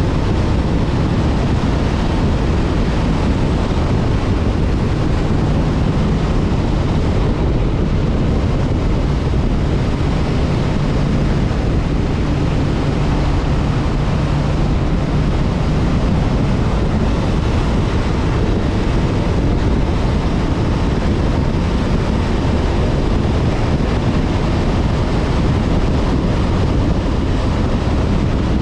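Honda CB500F parallel-twin engine running at a steady cruise under heavy wind rush on the microphone. A low, even engine hum stands out for several seconds in the middle, then sinks back into the wind noise.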